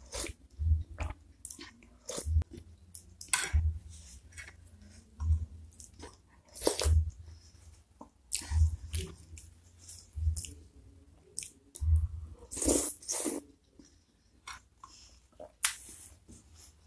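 Close-up chewing of a mouthful of beef meatball (bakso) and flat noodles: irregular wet smacks and clicks, with dull low thumps about every second and a half.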